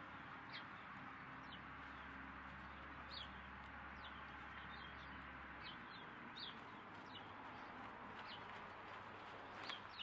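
Small birds chirping faintly: a dozen or so short, high, falling notes scattered irregularly over a steady hiss. A low hum fades out about six seconds in.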